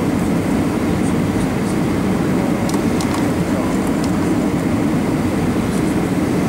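Steady cabin rumble inside an Airbus A321 airliner, engine and airframe noise with no break, with a few faint ticks about three seconds in.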